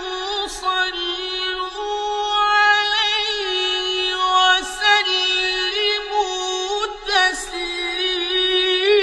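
A man chanting Arabic devotional verse, salawat on the Prophet, in long held notes with melismatic ornaments and brief breaks for breath.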